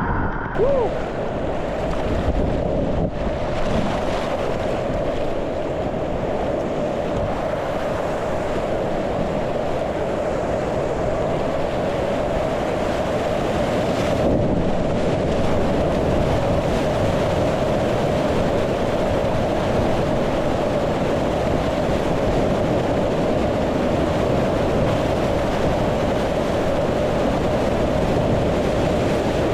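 Steady rush of whitewater river current around a kayak, with wind noise on the microphone.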